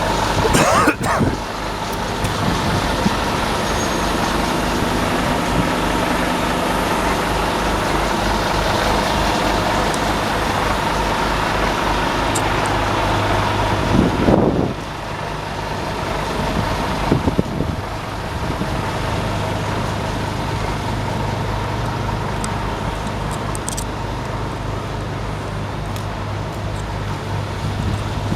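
Scania P280 truck's nine-litre five-cylinder diesel engine running steadily. There is a brief louder burst at the very start and another about halfway, after which it runs slightly quieter.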